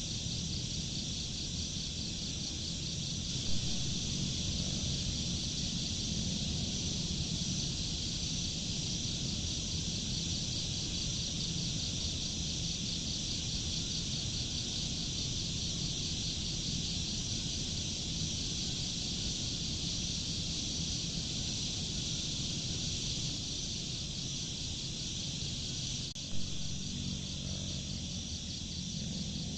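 Crickets chirping in a steady, rapidly pulsing chorus over a low background rumble, with two brief clicks, one a few seconds in and one near the end.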